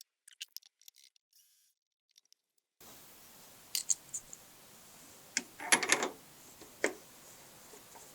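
Small metal tools and parts being handled in a machine shop: a few short, light clicks and clinks, with a louder brief rattle about six seconds in. No machine is running.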